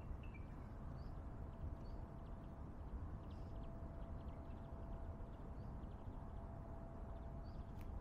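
Outdoor rural ambience: a small bird gives short high chirps about once a second, over a low steady rumble and a faint steady hum.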